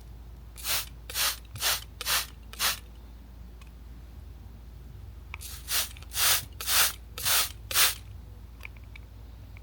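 A hand sprayer pumped in quick squirts, each a short hiss: a run of five about two a second, a pause, then another run of five.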